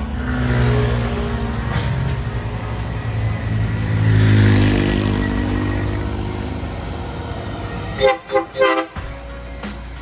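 Heavy truck engine running as it goes by, swelling in loudness twice, then three short horn blasts near the end.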